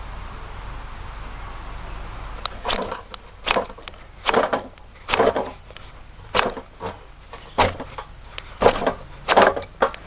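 Dry twigs or kindling crunching and snapping: about a dozen short, sharp crunches at irregular intervals, less than a second apart, starting a couple of seconds in.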